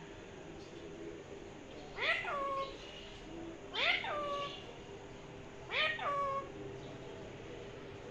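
Pet parrot giving three meow-like calls about two seconds apart, each a short cry that rises and then falls in pitch, like a cat's meow.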